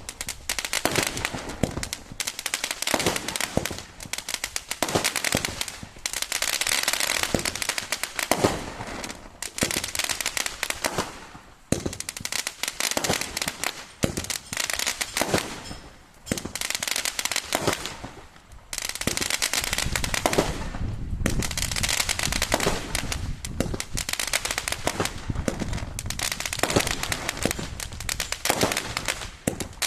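Crackling fireworks: dense, rapid pops and crackles in bursts of a few seconds, with short lulls between them and a deeper rumble partway through.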